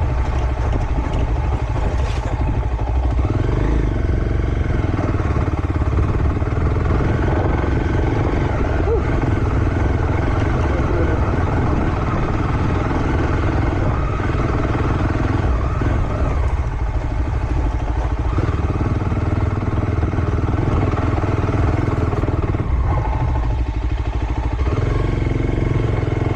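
Motocross motorcycle engine running continuously through a slow lap, its revs easing and picking up a little.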